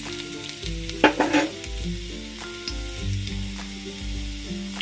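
Chopped garlic and ginger sizzling in hot oil in a kadhai, being stirred with a metal spatula, with a few brief scrapes of the spatula about a second in.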